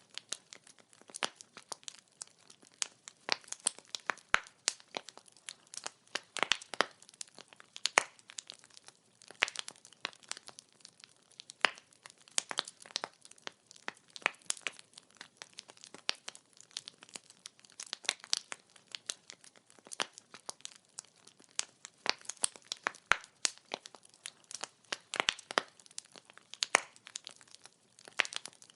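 Wood fire crackling: burning logs popping and snapping in quick, irregular clicks over a soft hiss.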